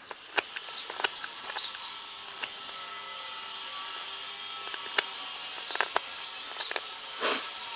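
Mora 105 carving knife cutting into dry, seasoned alder: scattered sharp cuts and clicks. A small bird chirps in the background in two short spells.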